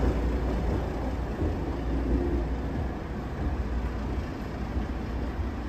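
Heritage passenger train's carriages rolling out of a station platform, a steady low rumble of wheels on rail fading as the train pulls away.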